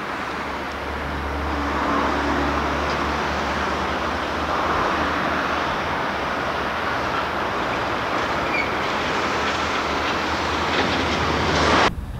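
Cement freight train hauled by a Class 56 diesel locomotive passing, its wagons running over the rails with a steady low drone underneath. The sound cuts off suddenly near the end.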